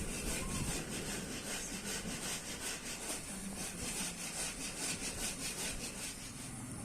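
Hand tool worked back and forth in steady rhythmic rasping strokes, about three a second, trailing off near the end.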